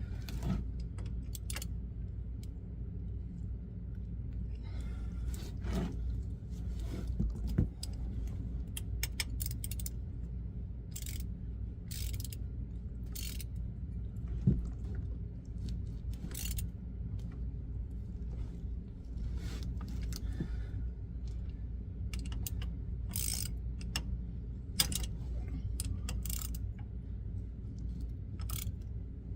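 Irregular metal clinks and knocks of hand tools and bolts being handled, a few sharper clanks among them, over a steady low hum.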